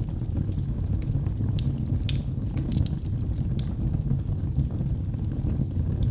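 Wood fire burning in a fireplace: a steady low rumble of flames with scattered sharp crackles and pops from the burning logs, a few a second.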